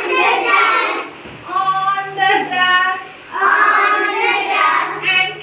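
Children singing together with a woman, an unaccompanied action song for young children sung in short repeated phrases.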